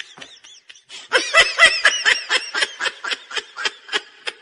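High-pitched human laughter in a rapid run of short 'ha-ha' pulses. It starts about a second in after a few faint squeaks and trails off near the end.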